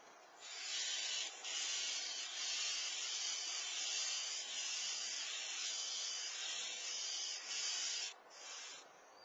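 A steady hiss, strongest in the upper range, with a brief dip just after a second and a stop about eight seconds in.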